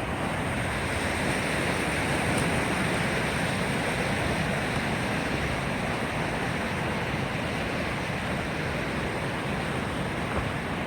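Waterfall's rushing water, a steady, even rush with no breaks.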